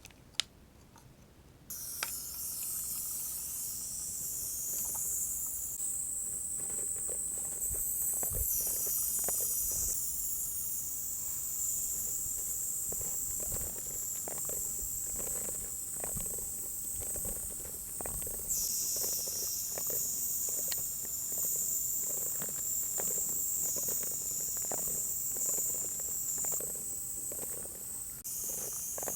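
Mist spray hissing close to the microphone: a steady high hiss that starts about two seconds in and changes in strength several times, with faint soft taps underneath.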